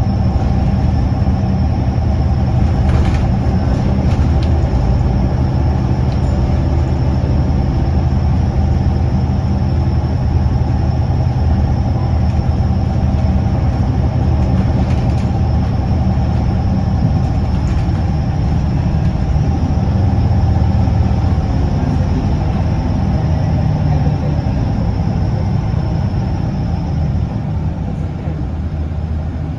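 Scania L94UB city bus's diesel engine and ZF automatic transmission running steadily as the bus drives. The engine note shifts about two-thirds of the way through and eases off near the end.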